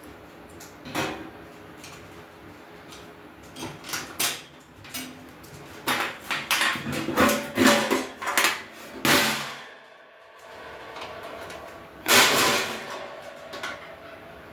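Clatter and knocks of metal grill parts being handled and fitted together during assembly, with a louder, longer scrape about twelve seconds in.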